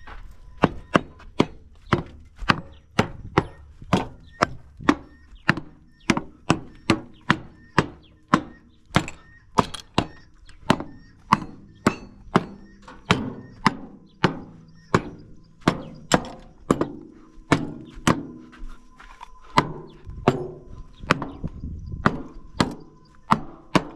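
Grain trailer's doors being struck over and over with a hammer, about two sharp blows a second with a short metallic ring after each, to knock the loaded trailer's doors tight shut.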